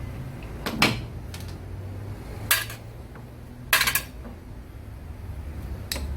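Three sharp metal clinks and a short clatter of tools and small parts while the generator stator is unbolted and lifted off a Honda Ape's engine, over a low steady background hum.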